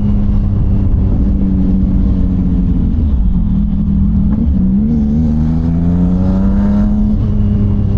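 CFMOTO 675NK motorcycle's three-cylinder engine running through a titanium full-system exhaust while riding. It holds a steady note, then the revs climb for about two seconds past the middle as the bike accelerates, and they drop back near the end as the throttle is rolled off or a gear is changed.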